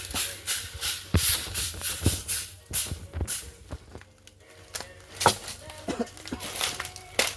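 Manual building work: irregular scraping and knocking strokes of hand tools, about one or two a second, easing off briefly about four seconds in.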